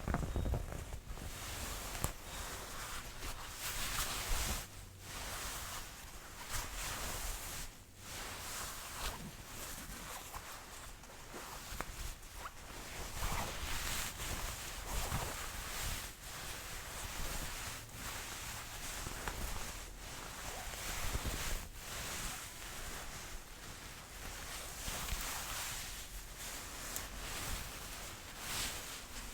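Jacket fabric rustling and swishing as the sleeves are rolled and handled, in uneven swells with short pauses.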